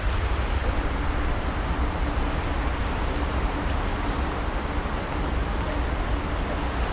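Steady outdoor rumble and hiss with a heavy low end and a faint steady hum underneath.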